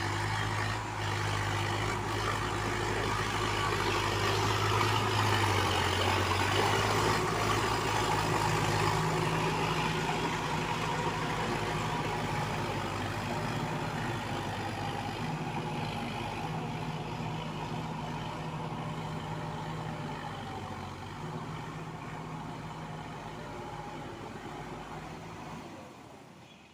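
ACE DI 6565 tractor's diesel engine running steadily under load while pulling a rotavator through a puddled field. It grows louder over the first several seconds, then slowly fades and drops away near the end.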